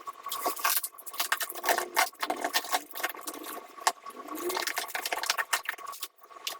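Plastic packaging and rolls of adhesive vinyl film being handled and unwrapped: a dense, irregular crinkling and rustling with light taps.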